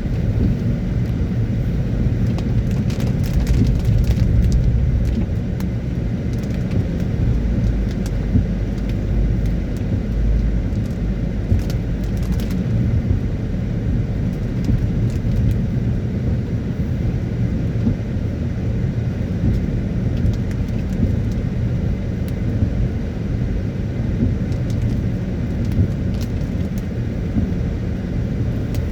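A car driving on a wet road in the rain: a steady low rumble of road and engine noise, with scattered light ticks, more of them in the first half.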